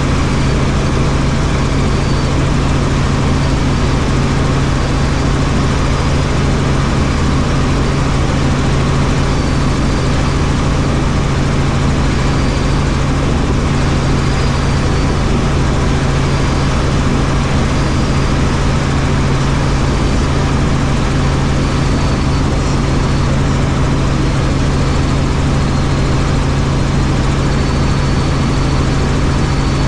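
Helicopter in flight: a steady, loud drone of engine and rotors with a strong low hum that holds the same pitch throughout.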